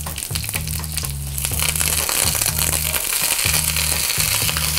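Blanched green beans dropped into a hot wok of bubbling butter and garlic, landing with a few light clicks, then sizzling; the sizzle grows louder about a second and a half in and holds steady.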